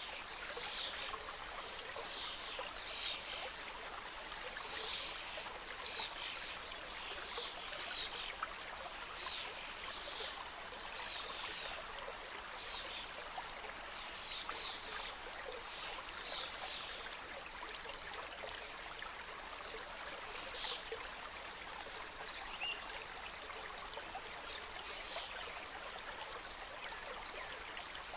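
Mountain stream cascading: a steady rush of flowing water with frequent small splashes and gurgles.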